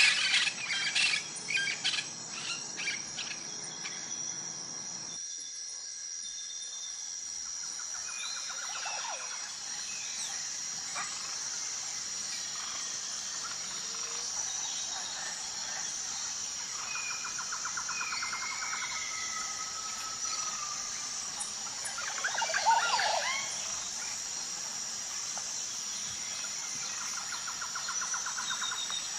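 Forest ambience: a steady high insect drone with scattered bird calls and short buzzy trills, and one louder, harsher bird call a little over two-thirds of the way through.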